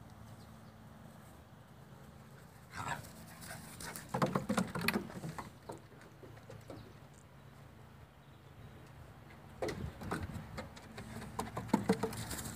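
A house cat having a mad running fit, its paws and claws scrabbling and thumping on the floor in two quick bouts of rapid clicks and knocks, about three seconds in and again near ten seconds.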